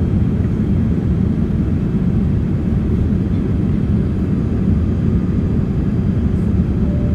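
Steady cabin noise of a Boeing 787 airliner in flight, with the engines and airflow making an even low rumble.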